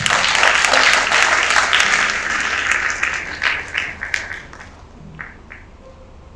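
Audience applauding: many hands clapping at once, fading over about four seconds to a few scattered claps.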